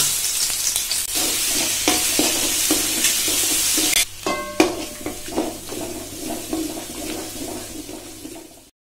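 Ginger-garlic paste sizzling loudly as it hits hot oil in an aluminium kadai and is stirred. After about four seconds the sizzle drops and carries on more softly under the scrape of a spatula against the pan.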